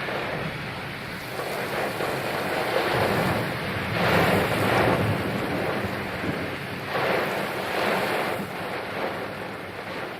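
Wind gusting across the microphone: a continuous rushing noise that swells into louder gusts every few seconds.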